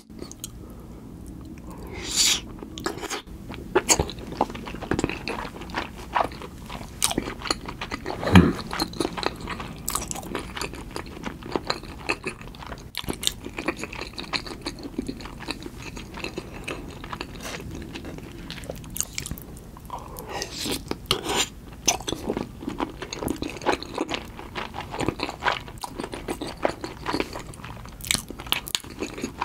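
Close-miked eating sounds: wet chewing and crunching of salmon sushi covered in tartar sauce, in many short crackles, with one louder bite about eight seconds in.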